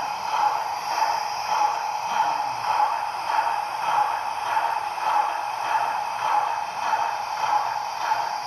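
Dallee Highline Steam sound card playing recorded steam-locomotive standing sounds through a small speaker inside a LEGO Reading Crusader model: a steady hiss with a pulse about twice a second.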